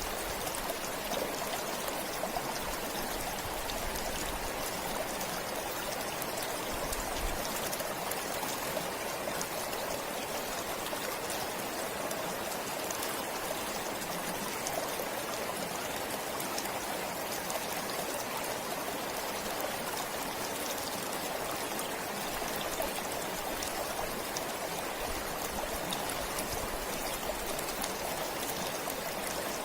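A stream flowing steadily, an even, unbroken rush of water.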